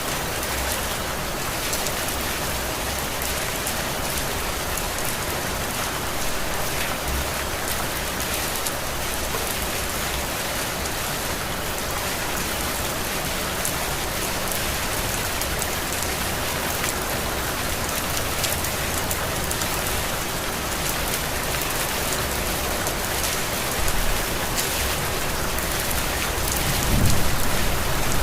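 Heavy rain falling steadily, a dense even hiss of drops, with a brief low rumble near the end.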